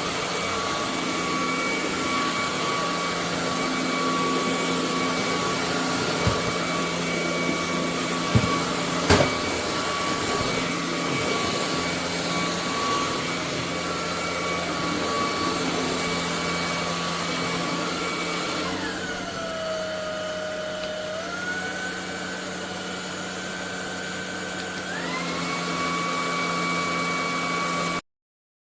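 Cordless stick vacuum cleaner running with a steady motor whine, with a few light knocks about a third of the way through. About two-thirds in, the whine glides down in pitch, steps part way back up, then rises to its first pitch again. It cuts off suddenly near the end.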